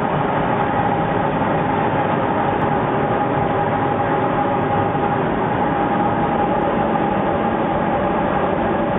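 Steady, loud machine din inside the cab of a DF11G diesel locomotive, with a steady whine running through it.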